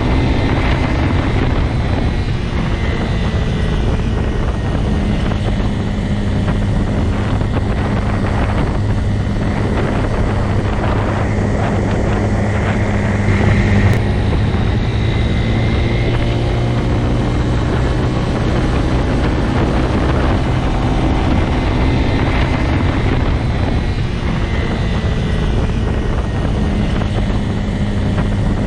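Motorcycle engine running steadily with a constant hum and a noisy rush of wind and road noise, briefly a little louder about halfway through.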